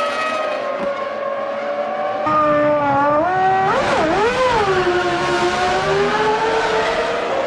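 Formula One car's 3-litre V10 engine running at high revs. Its pitch dips sharply and climbs back about four seconds in, then rises slowly.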